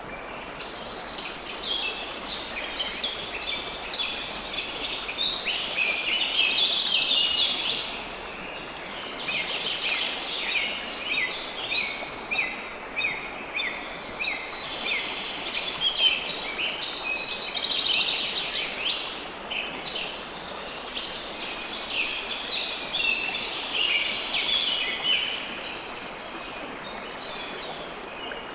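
Steady flowing river water with many birds chirping busily over it in rapid bouts, pausing briefly about eight seconds in and fading out near the end.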